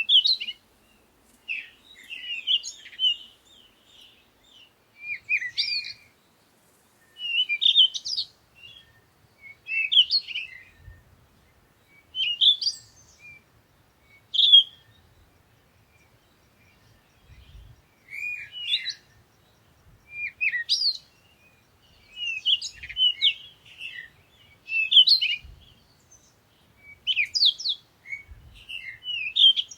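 Songbirds singing: short, high chirping phrases that come every second or two, with quiet gaps between them.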